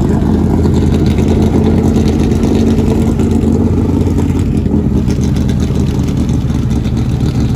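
A car engine running with a steady low drone. A tone in it holds through the first half and fades about halfway.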